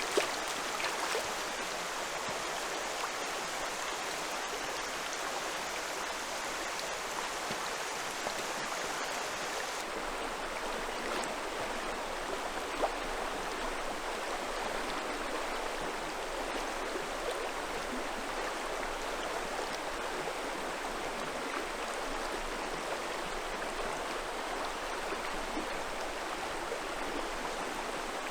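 Steady rushing of a fast-flowing mountain river, with a faint click or two.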